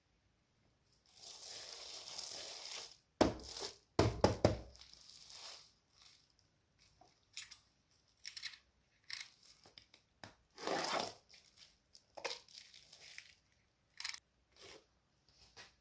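Handling noises: a stretch of rustling, then a cluster of sharp knocks, followed by scattered short clicks and rustles.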